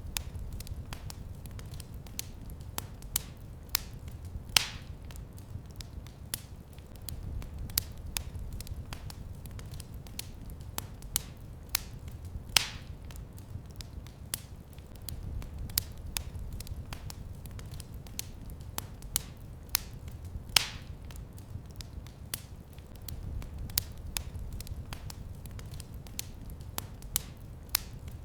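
Wood fire in a fireplace crackling, with frequent small snaps and three louder pops about eight seconds apart, over a low rumble of the flames that swells and fades.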